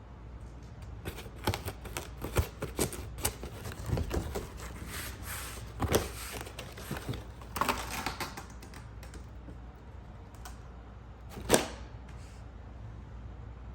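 Irregular run of light clicks and knocks, some in quick clusters, with one louder knock near the end.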